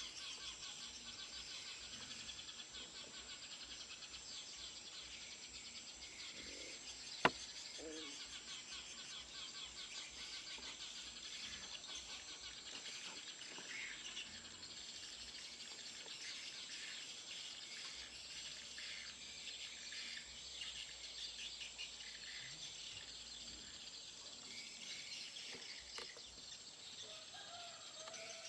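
Eurasian tree sparrows chirping: a dense run of rapid, high chirps, over a steady high-pitched drone. There is a single sharp click about seven seconds in.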